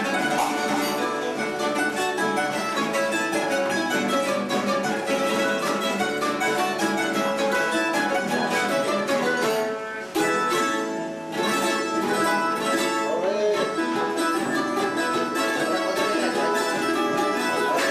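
A plucked-string trio of bandurria, laúd and guitar playing an instrumental passage of a Cádiz carnival tango, with quick plucked and tremolo notes over guitar chords.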